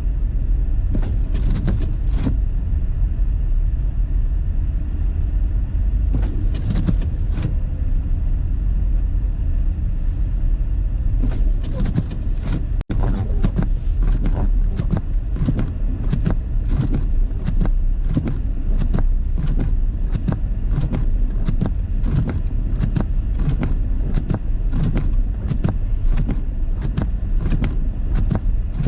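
Steady low road-and-engine rumble inside a car's cabin, driving through snow. A few sharp ticks come early on, and from about halfway a regular ticking runs at roughly two to three a second.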